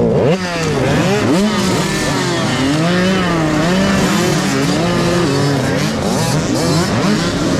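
Several dirt bike engines revving loudly, their pitches rising and falling and overlapping as the riders work the throttle.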